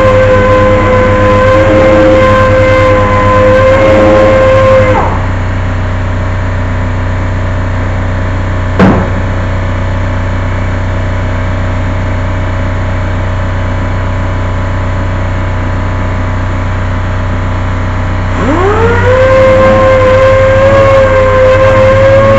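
A handheld power tool's motor whining at high speed, winding down about five seconds in and spinning back up near the end, over a steady low hum. A single sharp click comes about nine seconds in.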